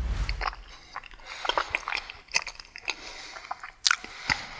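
A person chewing a mouthful of soft chicken and boiled sweet potato close to the microphone: wet mouth smacks and small clicks, with a low thump as the spoon goes in and a sharp click a little before the end.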